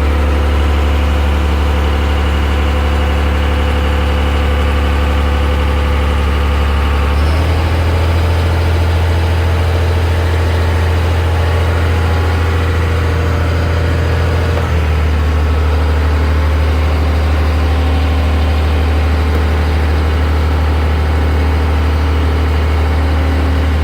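Boat engine running steadily under way, a deep, even drone whose note shifts slightly twice along the way.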